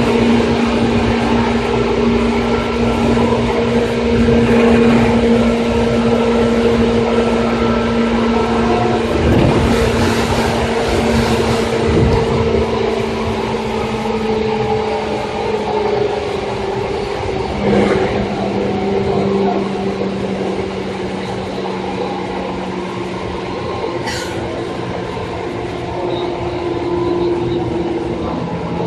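Running sound of a Seibu 2000 series electric train: steady motor and gear whine over wheel and rail noise, the whine's pitch easing slowly downward. A short high squeal sounds about three-quarters of the way through.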